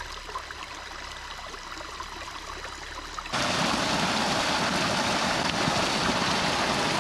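Stream water rushing steadily. It is fainter at first, then becomes abruptly much louder and fuller about three seconds in.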